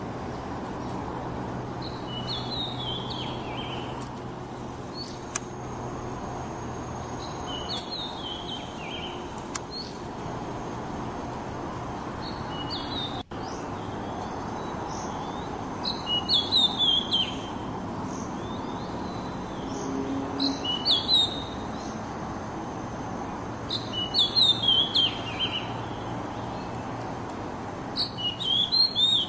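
Oriental magpie-robin (kacer) singing short whistled phrases every few seconds, louder and more frequent in the second half, over steady background noise.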